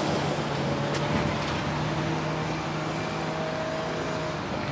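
A motor vehicle's engine running with a steady low hum and a fainter higher tone over general outdoor noise; the hum stops shortly before the end.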